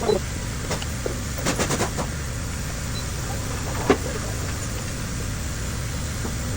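An engine running steadily with a low rumble. A few light metallic clicks come between one and two seconds in, and a single sharper knock near four seconds.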